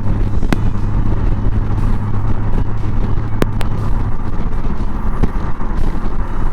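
Honda Gold Wing's flat-six engine running steadily at highway cruising speed, a constant low drone under steady wind and road noise. A few brief clicks are heard, one near the start and two about three and a half seconds in.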